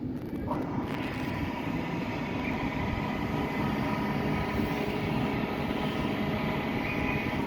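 Electric train running through the station with a low rumble; about half a second in, a set of steady whining tones from its traction motors joins in.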